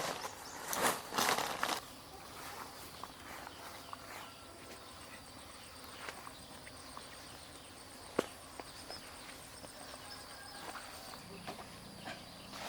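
Rustling footsteps through dry leaves and brush for the first couple of seconds, then a quiet outdoor background with a faint high insect trill, occasional small clicks and one sharp click about eight seconds in.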